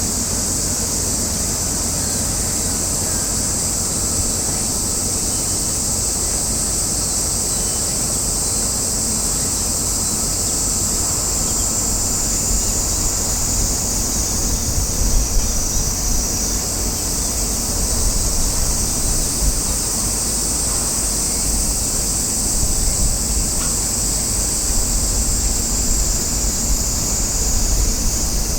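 Wind buffeting the microphone in uneven gusts, with a continuous high-pitched buzzing hiss over it.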